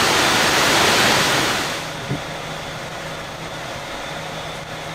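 Hurricane-force wind roaring, a dense rushing noise that is loudest for the first two seconds and then eases. A faint low steady hum sits underneath from about two seconds in.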